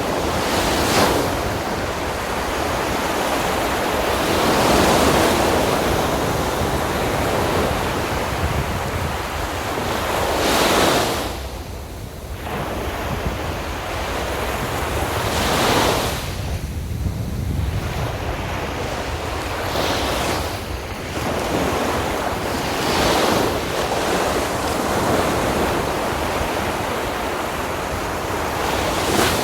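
Sea waves breaking and washing up on the beach, a surge of surf every four to six seconds over a continuous wash, with a steady low rumble of wind on the microphone.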